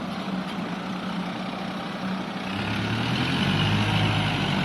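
Dump truck's diesel engine running, rising in level and revving higher about two and a half seconds in.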